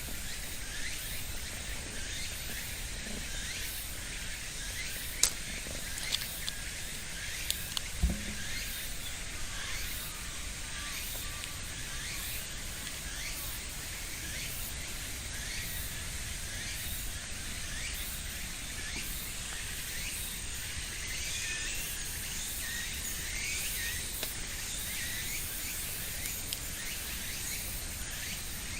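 Outdoor park ambience: many short bird chirps over a steady high hiss and a low rumble, with a couple of sharp clicks about five and eight seconds in.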